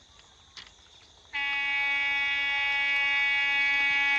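Locomotive horn of an Indian Railways express train: after a quiet stretch, one long steady blast starts about a second and a half in.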